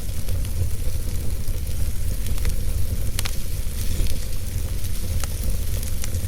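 Fireplace fire burning with a steady low rumble and scattered sharp crackles, the loudest crackle about three seconds in.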